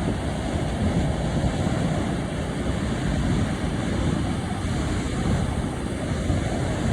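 Sea surf washing and surging over shoreline rocks, with wind buffeting the microphone and a heavy low rumble.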